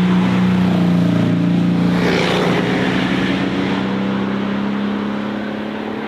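A car engine running at steady revs, its note holding and then creeping slightly higher, with a rush of noise about two seconds in.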